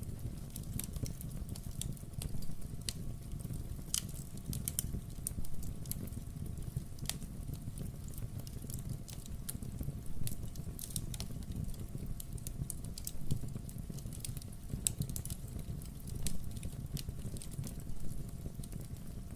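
Wood fire burning in a fireplace: a steady low rumble of the flames with scattered crackles and small pops from the burning logs.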